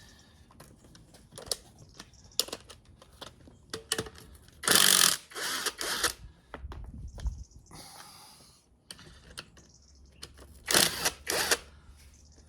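Hand tools working on an engine: scattered metal clicks and knocks, with two louder rasping bursts about a second long, one in the middle and one near the end.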